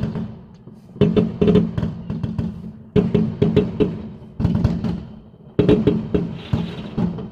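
Fireworks going off in volleys: four fresh clusters of sharp bangs, each fading over about a second before the next, spaced unevenly.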